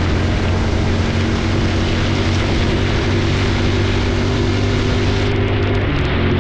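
Honda Super Cub C125's single-cylinder engine running steadily while riding, its even hum under a constant hiss of wind and road noise.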